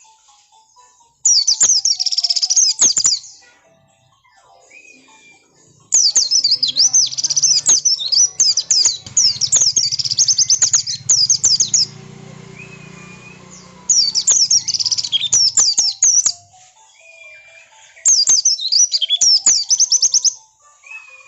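Pleci (white-eye) song: four loud bursts of rapid, high-pitched twittering chirps with short pauses between them. This is an insistent lure song meant to provoke a caged pleci into answering. A faint low hum runs under the middle of it.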